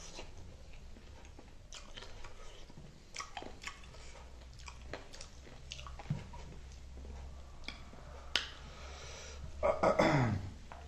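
Close-up chewing of chicken wings and rice eaten by hand: wet mouth smacks and small clicks, with a louder mouth sound falling in pitch near the end.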